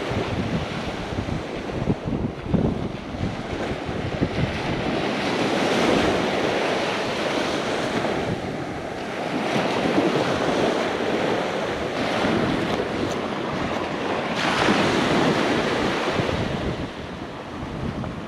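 Ocean surf breaking on the beach with strong wind buffeting the microphone, swelling louder and easing every few seconds as waves come in.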